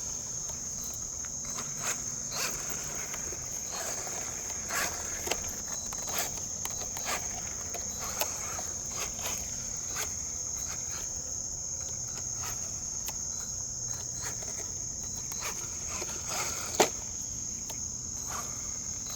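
Steady high-pitched insect chorus, with scattered light clicks and knocks over it and one sharper knock near the end.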